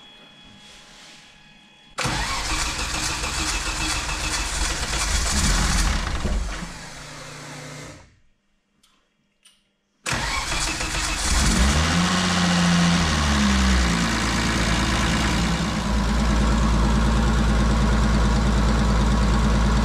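Car engine starting about two seconds in and running loudly, then, after a short break, revved up and back down once before settling into a steady idle at about 1100 rpm while still cold.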